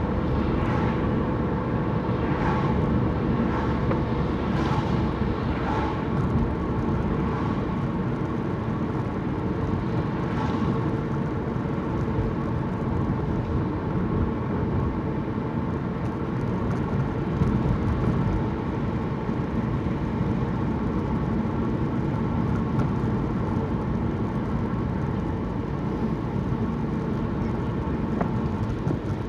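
A car driving steadily, its engine and tyre noise heard from inside the cabin.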